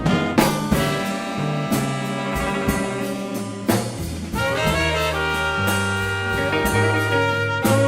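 Small jazz band playing a blues: saxophones and trumpet over bass and drums, with cymbal strokes and some long held horn notes in the second half.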